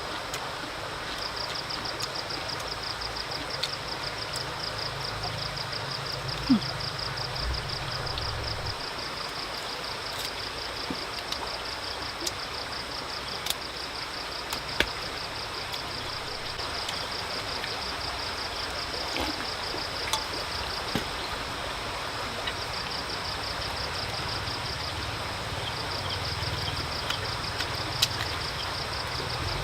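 Insects trilling steadily in a high, fast-pulsing tone over a constant hiss. The trill fades for a few seconds past the middle, and scattered sharp clicks fall throughout.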